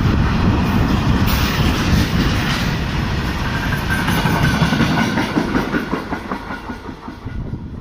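Wheels of a heavily loaded freight train's wagons running over the rails as the end of the train passes. The sound fades away over the last couple of seconds.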